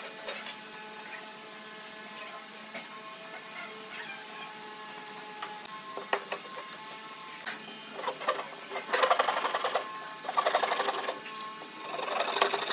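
A tool working wood in bursts about a second long, each a fast rattle, three of them starting about nine seconds in, after a quieter stretch with faint steady tones.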